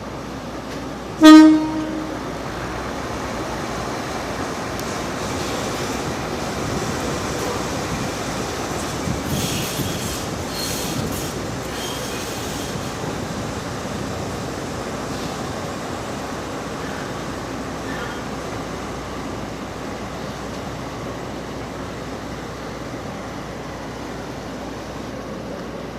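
A freight train's horn gives one short blast about a second in. Then the train rolls steadily over the rails, with brief high wheel squeals near the middle.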